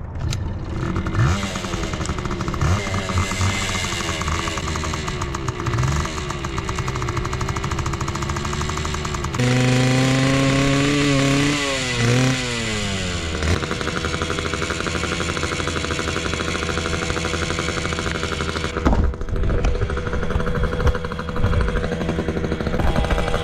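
Pit bike's small engine running under changing throttle, its pitch rising and falling. About ten seconds in the revs are held high for a couple of seconds, then fall away.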